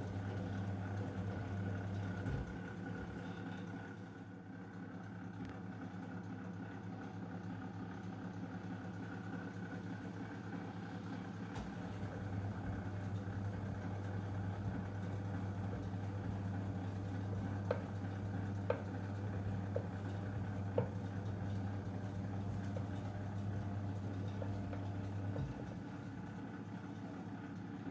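Zanussi DL22 washing machine running a 90 °C boil wash. A steady hum switches on and off as the drum motor turns in long spells with pauses between. A few light clicks come about two-thirds of the way through.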